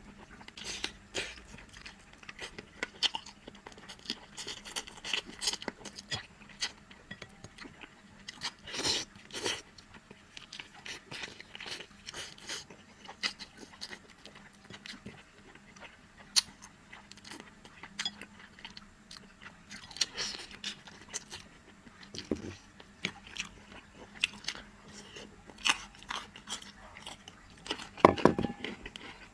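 Close-miked eating of spicy softshell turtle: irregular chewing, biting and crunching with wet mouth sounds. A louder burst of crunching comes near the end.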